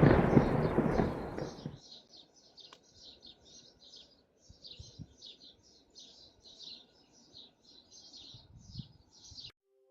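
Thunder rumbling and dying away in the first couple of seconds, followed by small birds chirping busily in many quick, high notes until the sound cuts off abruptly near the end.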